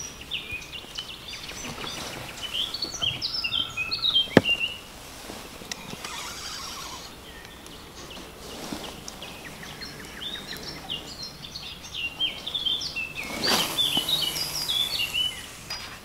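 A songbird singing quick, chirping phrases, twice: once about two and a half seconds in and again from about ten seconds in. A single sharp click comes about four seconds in.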